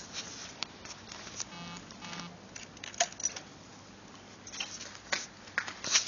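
Scattered sharp clicks and taps, with two short buzzing tones about one and a half to two seconds in; no engine is running yet.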